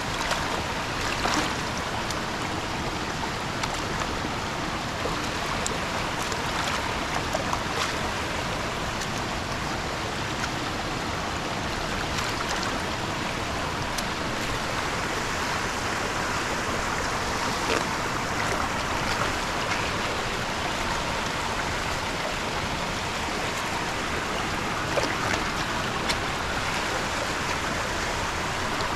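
Steady rush of flowing water, with a few light clicks here and there.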